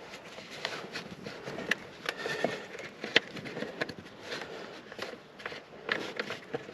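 Scattered light clicks and knocks of hands working at the air filter housing of a Mercedes W201 190D's engine bay, with one sharper click about three seconds in, over handling noise.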